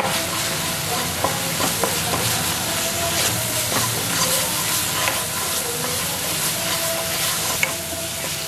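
Onion-garlic masala paste with spice powders sizzling in oil in a nonstick wok while a wooden spatula stirs and scrapes it, with frequent short scrapes and taps against the pan. The masala is being fried until done.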